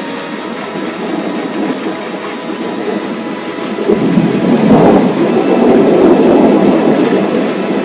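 Steady rain, with a rumble of thunder swelling about four seconds in and rolling on to the end.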